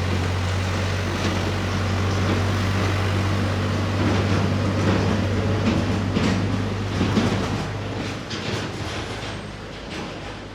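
A machine running with a steady low hum and irregular clattering and clicking, starting abruptly and easing off somewhat near the end.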